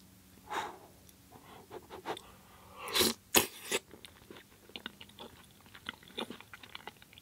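A person chewing a mouthful of pasta in tomato sauce with sausage and mushroom, close to the microphone: soft, wet mouth clicks, with a few louder smacks about three seconds in.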